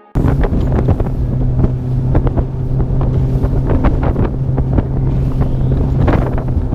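Fishing boat's outboard motor running at a steady pitch through rough water, with wind buffeting the microphone. Irregular slaps and knocks, a few each second, come from the hull pounding through big waves.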